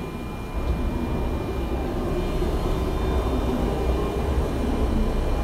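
Electric train running, a steady low rumble that grows louder about half a second in, with a faint steady whine above it.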